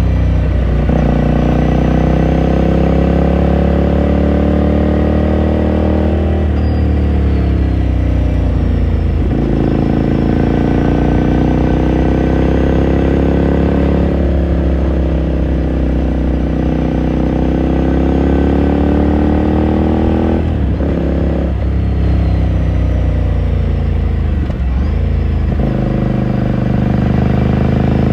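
2018 Ducati Scrambler Sixty2's air-cooled 399 cc L-twin heard onboard while riding, revs climbing and falling as the rider works the throttle and shifts gears several times, with a few quick changes near the end.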